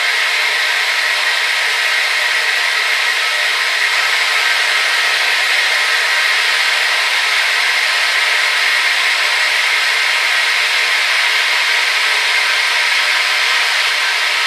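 Hair dryer running steadily: a constant rush of air with a faint motor whine, strongest in the upper-middle range.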